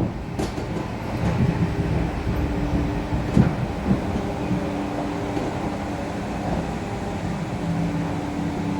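ED4M electric multiple-unit train heard from on board, a steady low rumble with a continuous hum, at the end of its run into the terminus. A few knocks come about three and a half seconds in.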